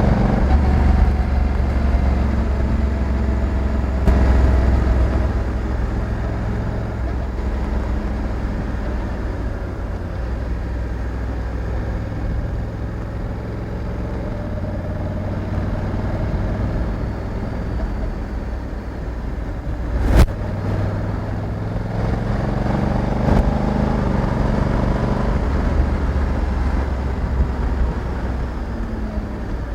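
Honda Africa Twin 1100 DCT's parallel-twin engine running under way, its note rising and falling with the throttle, over a haze of wind and road noise. There is a single sharp knock about twenty seconds in.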